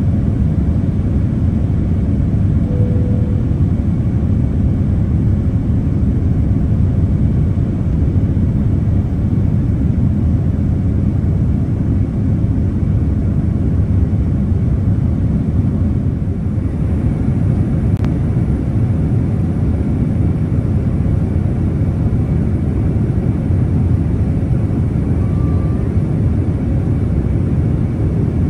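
Steady low rumble of engine and airflow noise heard inside the cabin of a Boeing 787-10 airliner, with a single faint click about two-thirds of the way through.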